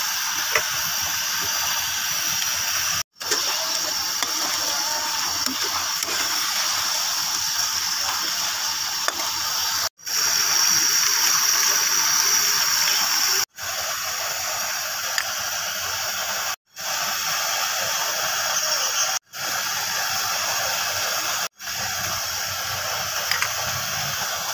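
Potato slices frying in oil in a metal wok, a steady sizzle. It drops out for an instant about six times and is louder for a few seconds about ten seconds in.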